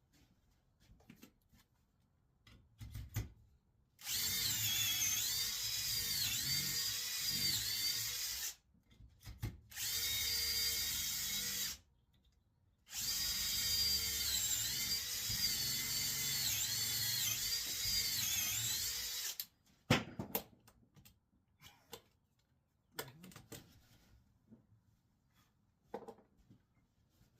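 Power drill boring dowel holes in red oak: three runs of a motor whine, the first about four seconds long, a short one, then a longer one of about six seconds, the pitch dipping again and again as the bit loads up. Scattered clicks and knocks come between and after the runs.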